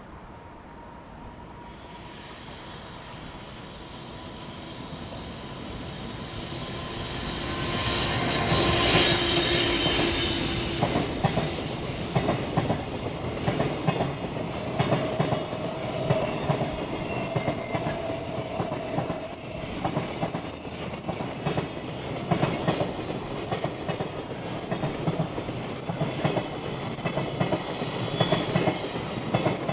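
Freight train hauled by an EF510 electric locomotive approaching and passing close by. The sound builds to its loudest as the locomotive goes by about nine seconds in, then the freight wagons roll past with a steady, rhythmic clatter of wheels over the rail joints.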